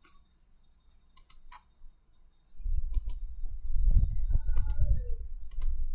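Scattered faint clicks at the computer, then from about two and a half seconds in a louder low rumble with irregular knocks, like handling noise close to the microphone.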